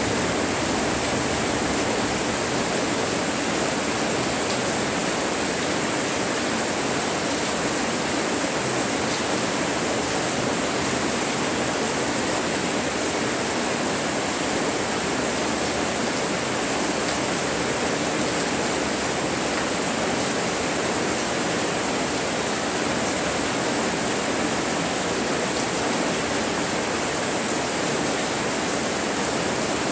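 Monsoon rain falling steadily: an even, unbroken hiss.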